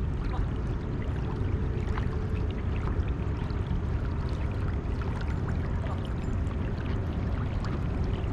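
Steady water noise around a kayak on a river: a low rushing sound with small splashes and clicks.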